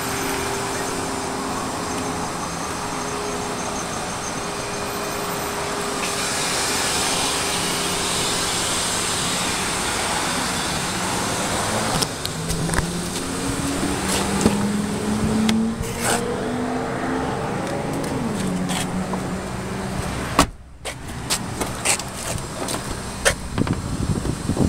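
Steady running of a motor vehicle's engine, its pitch rising and falling slowly in the middle. Near the end the sound drops out briefly, and a few sharp clicks and knocks follow.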